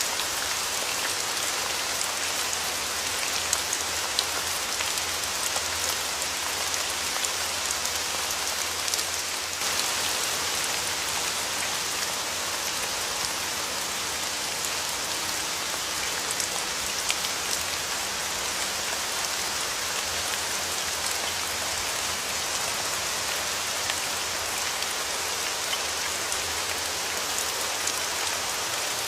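Steady rain falling: a dense, even hiss with scattered sharper drop ticks here and there.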